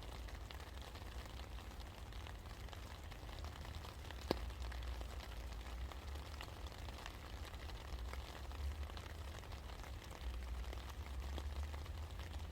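Steady rain falling, with many individual drops ticking on nearby surfaces over a low steady rumble. One sharper, louder drop or click comes about four seconds in.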